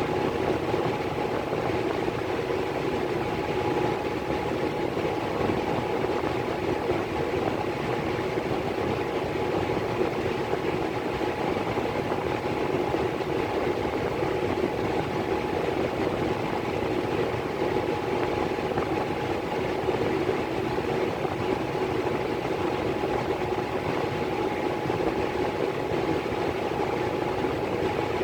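Miller E3 furnace blower running steadily: a constant airflow rush with a steady hum.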